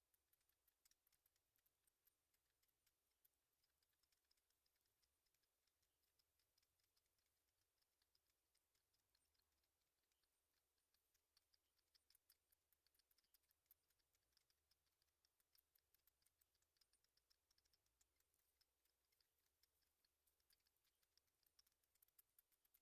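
Near silence with faint, irregular tiny clicks and ticks.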